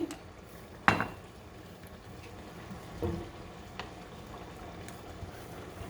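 A sharp clink at a frying pan about a second in, then a lighter tick or two over a faint steady hiss while olive oil goes into the pan.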